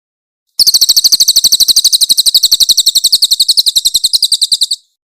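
Crested jay (cililin) giving a long, harsh, high-pitched rattling call: a fast, even run of about ten sharp notes a second for roughly four seconds, starting about half a second in and cutting off abruptly.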